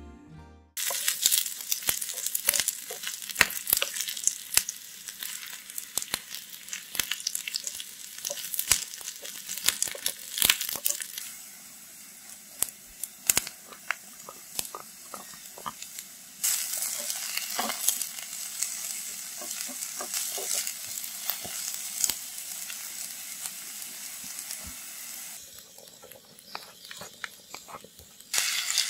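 Olive oil sizzling and crackling with sharp pops in a miniature cast-iron sizzling plate as chopped vegetables are stir-fried in it. The sizzle gets louder about halfway through and eases off a few seconds before the end.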